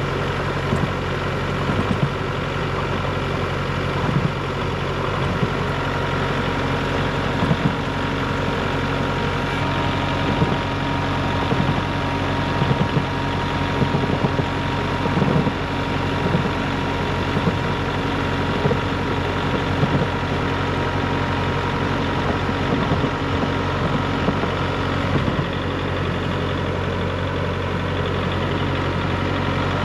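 Heavy vehicle engine idling steadily during a winch recovery of a tractor stuck in snow, with scattered faint knocks.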